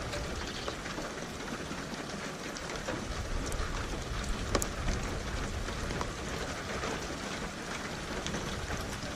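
Steady rain, with sharp ticks of single drops hitting a surface close by, over a low rumble of distant thunder that eases about a second in and returns in the second half.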